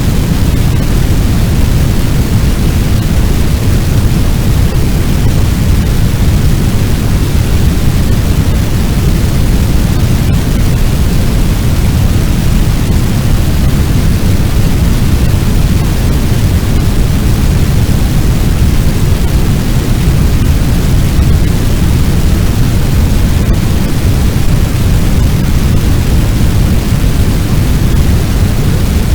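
Fire sound effect: the steady, deep rushing noise of a large blaze, with no separate crackles or pops standing out.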